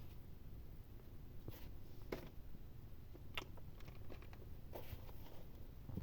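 A few faint soft clicks and rustles, four or five in all, over a low steady rumble: a newborn kitten moving about.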